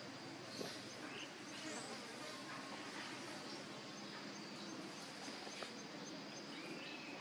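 Outdoor ambience: a steady high insect drone with a faint chirp repeating about twice a second, over a background hiss, with a few short bird-like calls.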